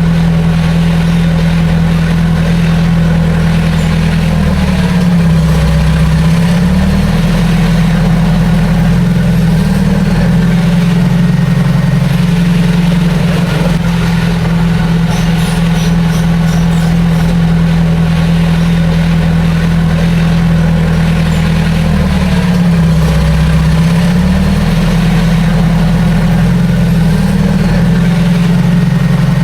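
Heavy diesel engine of earthmoving machinery running steadily, its pitch sagging briefly and recovering twice, as when the engine takes load.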